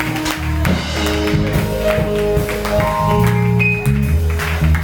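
Live church praise-band music: a bass line and held keyboard notes over a steady percussion beat.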